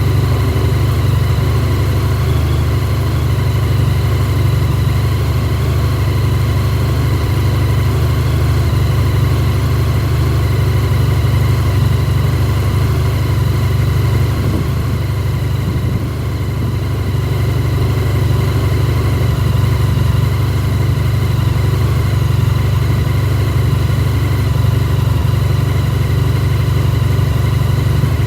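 Honda VFR1200F's V4 engine idling steadily while warming up after a start in sub-zero cold, about −8 °C.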